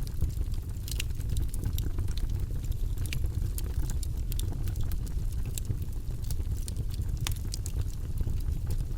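Campfire burning: a steady low rumble with irregular sharp crackles and pops of burning wood.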